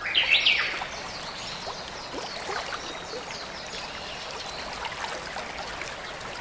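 Water trickling and splashing steadily, with a few brief high chirps in the first second.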